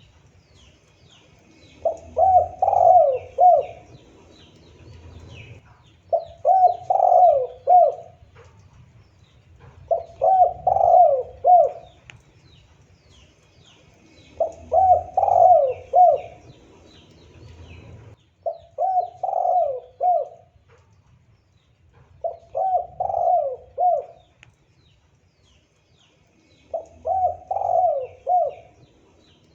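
Spotted dove (tekukur) cooing: seven phrases about four seconds apart, each a quick run of three or four coos. Faint high chirps of small birds run behind.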